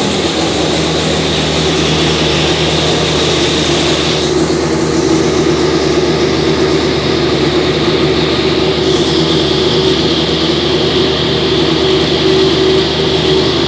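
Benetton Formula One car's racing engine idling at a steady pitch just after start-up.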